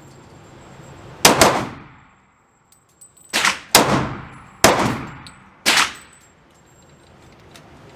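Six pistol shots: two quick pairs, then two single shots about a second apart, each with an echoing tail.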